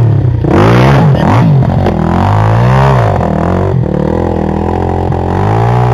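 Off-road motorcycle engine revving up and dropping back again and again, its pitch rising and falling about once a second as the throttle is worked over rough ground.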